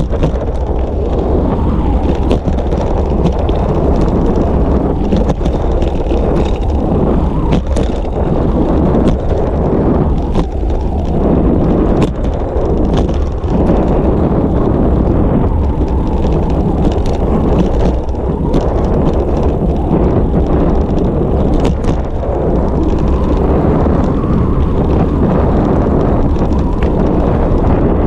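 Wind buffeting the microphone of a bike-mounted GoPro during a road ride, a steady loud rumble. Scattered sharp clicks and rattles come from the bicycle as it rides over the road.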